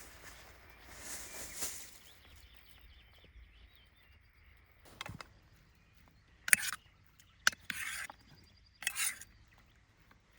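A soft rustle, then a handful of short, sharp rustling and scraping sounds spaced a second or so apart, like materials being handled or moved outdoors.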